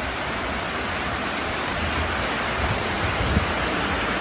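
Heavy rain falling steadily on a corrugated metal roof, a dense, even hiss.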